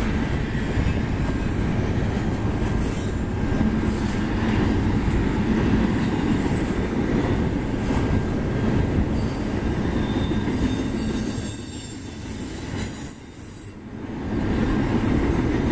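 Double-stack intermodal well cars rolling past at speed: a steady rumble and clatter of steel wheels on the rails, with faint thin wheel-squeal tones. The noise dips for a couple of seconds about three-quarters of the way through, then comes back up.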